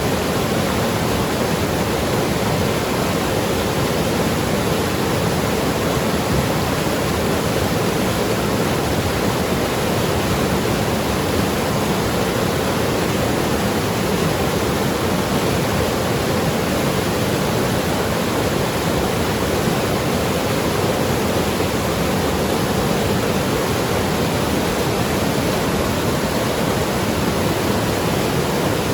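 Mountain river rushing and gurgling over rocks, a steady full-bodied water noise that stays even throughout.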